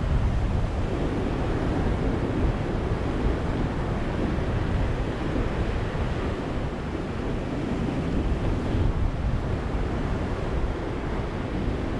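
Ocean surf washing steadily onto a beach: a continuous rush of breaking waves without distinct crashes.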